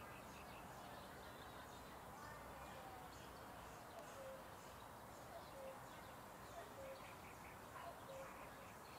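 Faint birdsong: scattered high chirps, and from about halfway on a short low call repeating about every second and a half, over a steady background hiss.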